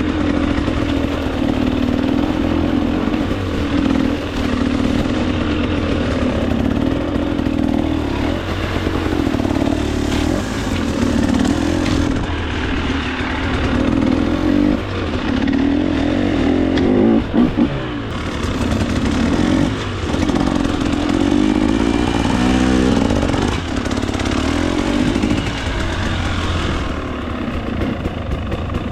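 2024 KTM 300 XC-W two-stroke single-cylinder engine running under riding load, its pitch rising and falling with the throttle and dipping briefly a few times before picking up again.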